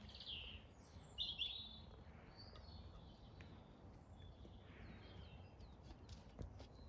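A few short bird chirps over a faint low outdoor background, the loudest about a second in, with a soft knock near the end.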